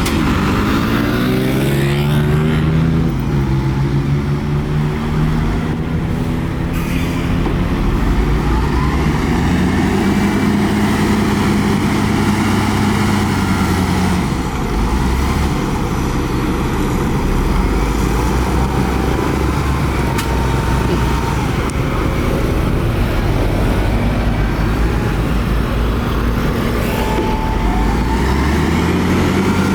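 Heavy diesel engine of earthmoving machinery running under changing load. Its pitch drops over the first couple of seconds, rises and holds about ten seconds in, then falls, and rises again near the end.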